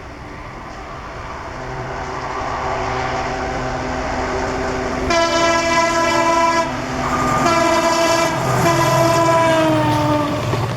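An Indian Railways WDP4B diesel locomotive running at speed, its engine growing louder as it approaches. It then sounds its horn in three blasts, the last falling in pitch as it passes.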